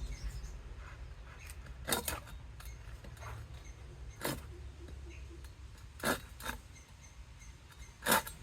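Woodworking sounds as a box is made from mango wood: about five short, sharp scrapes or knocks a second or two apart, over a low steady hum.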